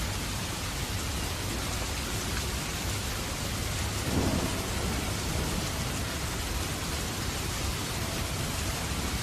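Steady rain falling, an even hiss, with a short low rumble of thunder about four seconds in.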